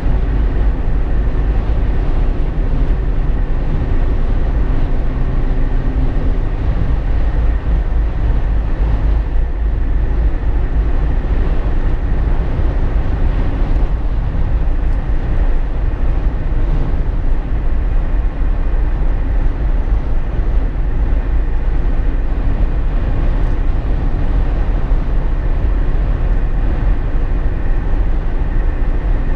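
Steady road noise inside a Jeep Wrangler JK's cabin while driving: deep engine and tyre rumble with wind noise, and a faint hum that fades out about seven seconds in.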